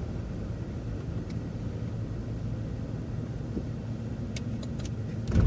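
Transit bus driving, heard from inside: a steady low engine and road rumble, with a few faint clicks late on and a heavier thump near the end.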